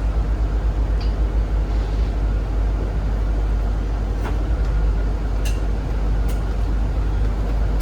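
Cabin running noise of a Zhongtong hybrid range-extender bus: a steady low rumble with a few sharp clicks or rattles in the second half.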